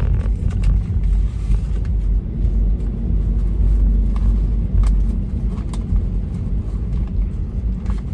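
Steady low road noise inside a moving car's cabin: tyre and engine rumble, with a few faint ticks.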